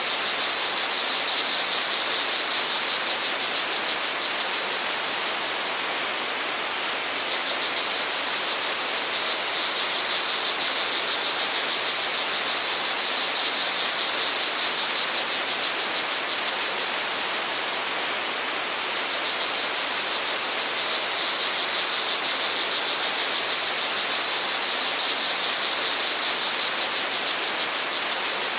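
Steady rush of flowing water, with crickets trilling high above it in long rapid-pulsed phrases that break off briefly twice.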